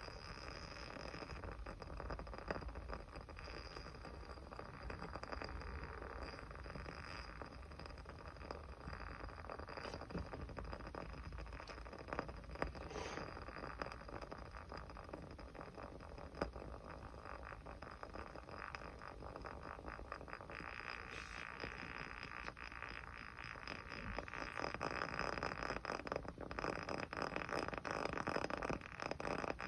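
Small fire crackling: a steady hiss of burning, dotted with many small snaps and an occasional sharper pop, a little louder near the end.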